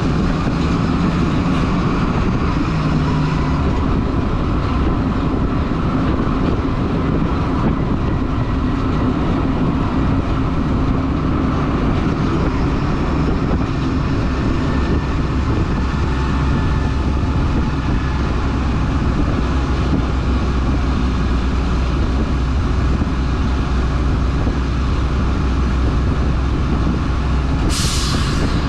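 Stewart & Stevenson M1078 LMTV military truck driving steadily, its diesel engine and drivetrain giving a loud rumble with rattles. A short hiss near the end.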